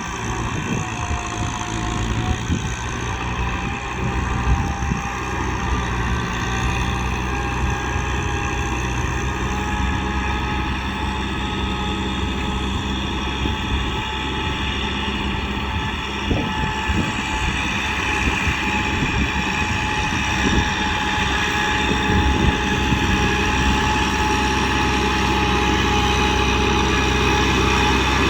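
Kubota M6040 tractor's diesel engine running steadily, with a steady whine over the engine note; it gets slightly louder near the end.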